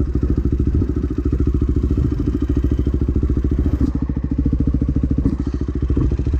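Dirt bike engine running steadily at low revs, with an even, rapid pulse.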